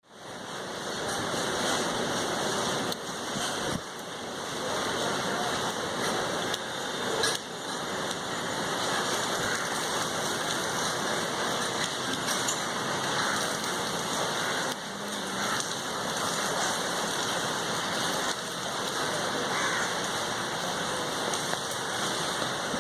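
Steady rain falling, an even hiss with no letup and a few brief louder spatters.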